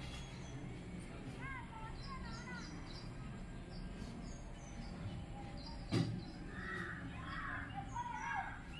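Faint background noise with a few short bird chirps, and a single sharp knock about six seconds in.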